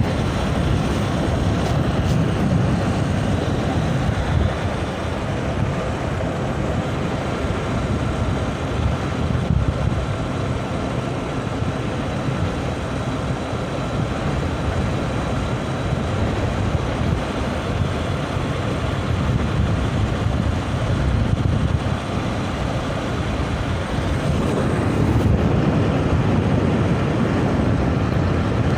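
Bajaj Discover 100 motorcycle under way, its small single-cylinder engine running steadily beneath heavy wind rush on the microphone.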